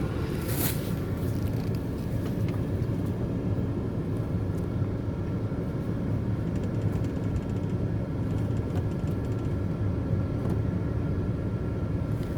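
Steady low rumble of a running vehicle engine, with a couple of short clicks near the start.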